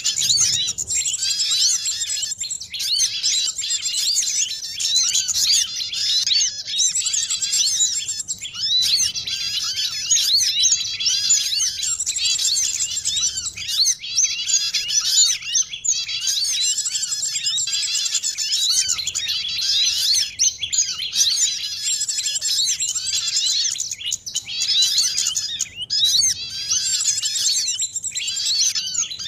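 Dense, busy chorus of many small songbirds chirping and twittering over one another without a break. It is a mixed small-bird lure recording, used to call birds down to a trap.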